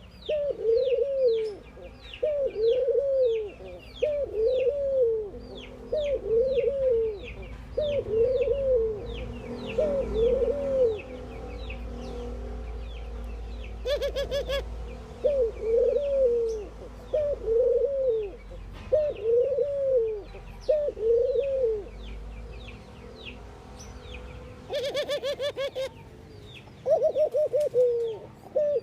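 Ring-necked doves cooing: a regular run of short arched coos, about one a second, with a pause about halfway. A short, rapid stuttering call comes twice. Quick, high, falling chirps from smaller birds run underneath.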